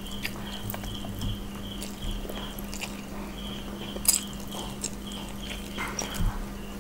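Close-up eating sounds of a hand-eaten meal of fish pulao and chicken: wet chewing and lip smacks, with a sharper smack about four seconds in. Near the end, fingers dig into the rice on a steel plate, over a steady low hum.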